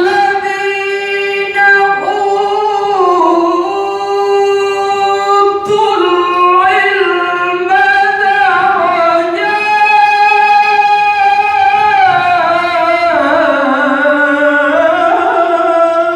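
A Quran reciter's solo voice in one long, unbroken melodic phrase of tilawah, the pitch held and sliding slowly up and down in ornamented runs.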